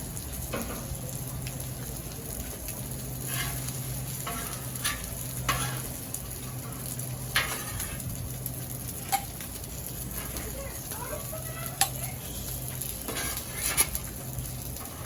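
Steady sizzling on a hot Blackstone flat-top griddle, with sharp clicks and short scrapes of a metal utensil on the steel cooktop every second or so.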